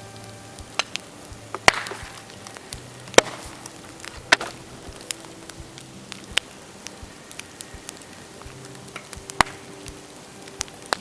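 Dead bamboo burning in a bonfire, giving sharp irregular cracks and pops, several of them loud, some with a brief hiss after, over light crackling.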